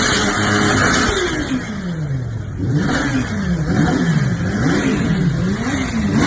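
Kawasaki Ninja H2R supercharged inline-four, loud through its exhaust: held at high revs, the revs drop away about a second in, then the throttle is blipped up and down several times in quick succession.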